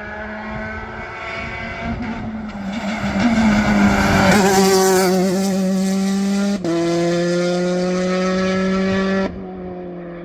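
Rally car engine at full throttle, loud and climbing in revs as the car comes through, with a quick upshift about six and a half seconds in before it pulls hard again. The engine sound drops away suddenly near the end.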